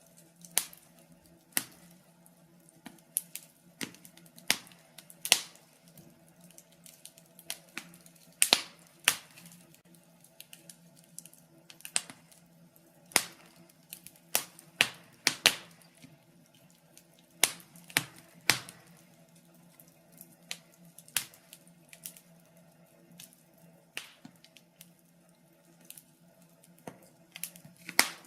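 Logs burning in a fireplace, crackling with irregular sharp pops, some in quick clusters and others seconds apart, over a faint steady low hum.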